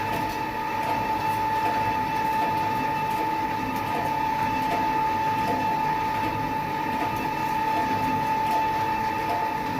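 Sheet-metal press running steadily: an even mechanical drone with a constant high whine and faint light ticks, and no heavy stamping strikes.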